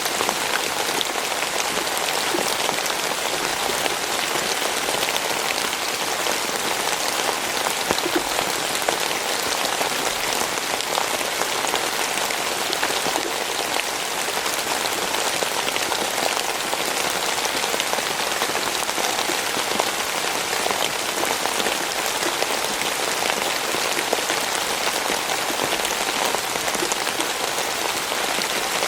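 Steady rainfall, a dense patter of many fine drops hitting a surface, even in level throughout.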